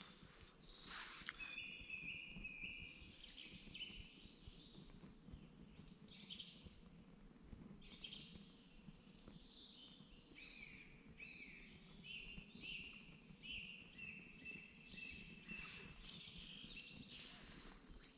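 Faint birdsong: a songbird singing short runs of repeated high notes, a brief one about a second in and a longer series later, over a quiet background.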